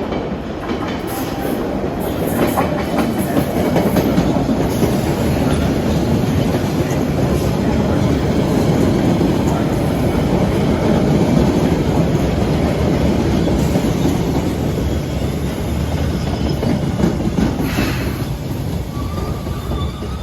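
MBTA train passing close along the station platform, its wheels running over the rails; the noise builds over the first few seconds, holds steady, and eases off near the end.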